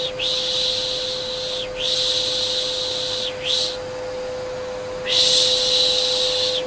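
Repeated shushing ('shh') about every second and a half over the steady hum of a vacuum cleaner, used as a soothing white-noise sound for babies.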